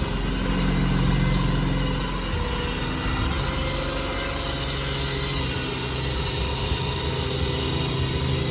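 2022 Ram 5500's Cummins 6.7-litre inline-six turbo diesel running steadily with the PTO-driven hydraulic pump working as the rollback bed slides back. A little louder in the first two seconds, then even.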